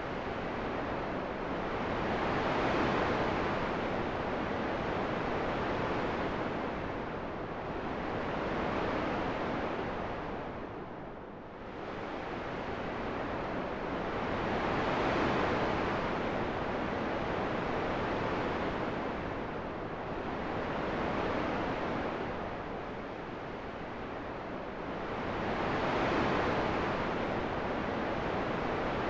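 Wind blowing in slow gusts, a soft whooshing noise that swells and fades about every six seconds.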